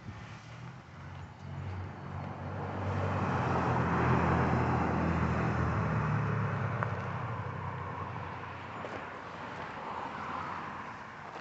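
A car driving past on the road: engine hum and tyre noise swell over a few seconds, are loudest around the middle, then fade away.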